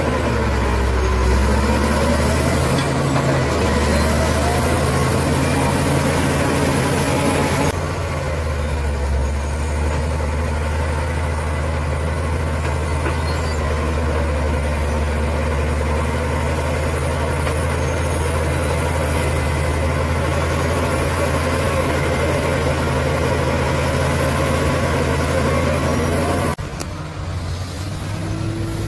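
Bulldozer's heavy diesel engine running steadily with a low, even drone. The sound changes abruptly twice, about eight seconds in and near the end.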